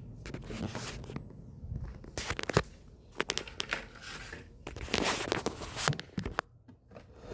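Irregular rustling and scraping strokes across the floor with a few sharp knocks, from floor cleaning by hand; no vacuum is running.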